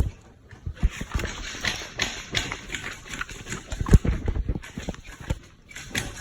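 Irregular knocks and thumps with rustling, several a second, the loudest about four seconds in; no engine running.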